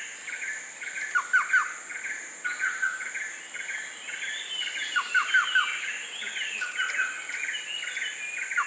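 Forest birds chirping and calling over a steady, high-pitched insect drone, with short runs of quick falling notes every couple of seconds.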